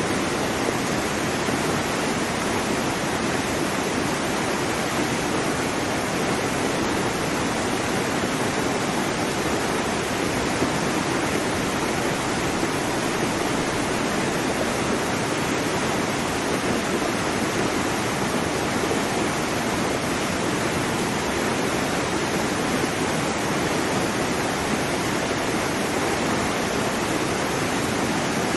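Waterfall: water falling and rushing, a steady, unbroken roar of white water.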